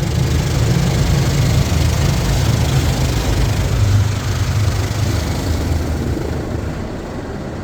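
Mark VII Aqua Jet GTO-300 touch-free car wash side rinse: high-pressure water spraying onto the car over the low hum of the wash machinery. It comes on suddenly and eases off near the end.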